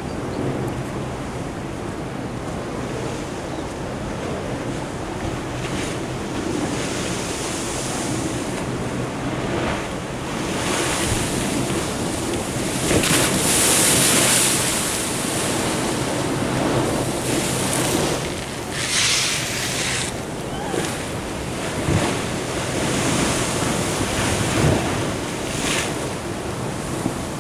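Ocean surf washing in, with wind buffeting the microphone. The wash swells loudest about halfway through, then comes and goes in smaller surges.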